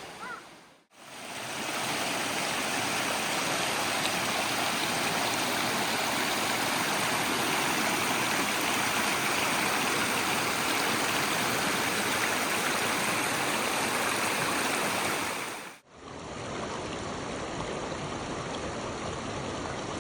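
Steady rush of flowing stream water. It drops out briefly about a second in and again about three-quarters of the way through, and after the second break it comes back a little quieter.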